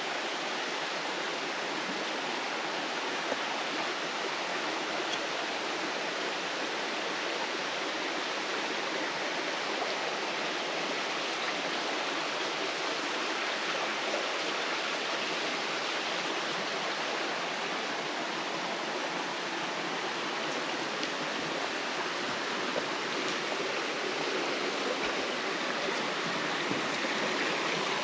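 Mountain stream rushing over rocks in a gorge: a steady rush of running water that grows slightly louder near the end.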